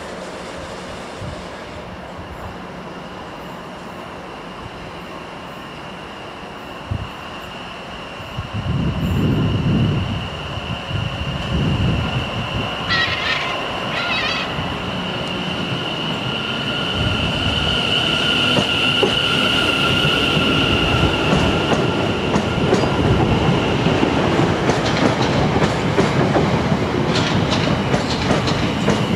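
Electric multiple-unit trains moving along the platform close by: a steady high whine through most of the time, over a rumble that grows louder. Near the end the wheels clatter over the rail joints.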